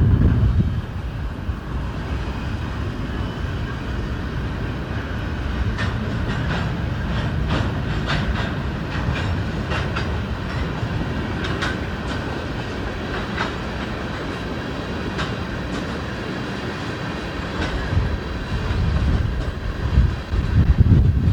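Freight cars rolling past, wheels clacking irregularly over rail joints above a steady low rumble. Gusts of wind buffet the microphone near the end.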